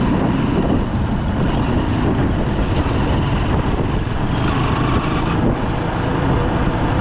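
Motorcycle under way in city traffic: a 2008 Bajaj Pulsar 200's single-cylinder engine running, mixed with a steady rumble of road and traffic noise.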